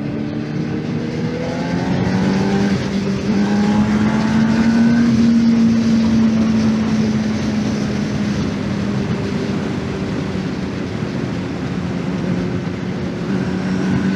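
2024 Honda CBR600RR's inline-four engine heard from the rider's seat, rising in pitch through the revs over the first five seconds, then holding roughly steady, with a slight lift near the end. A steady rush of wind noise runs under it.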